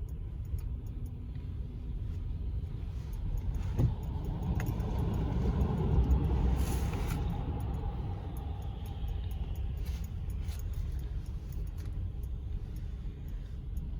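Low, steady rumble of a car going through an automatic car wash, swelling about halfway through and easing off again, with a sharp click shortly before the swell.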